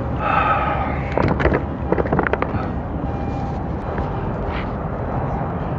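A quick run of sharp knocks and clatters, about one to two and a half seconds in, over a steady low rumble: gear being handled and bumped against a kayak and its camera mount.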